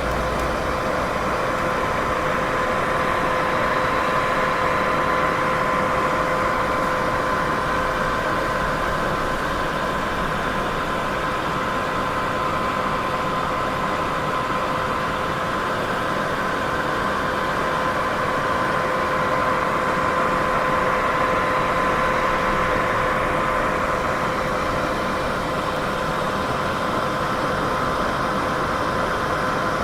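Steady, unchanging white noise for sleep: a constant hiss with a faint steady hum running through it.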